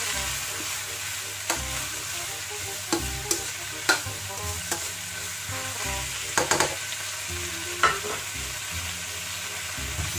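Vegetables sizzling in a hot wok while a metal spoon stirs and tosses them, clinking and scraping against the pan several times.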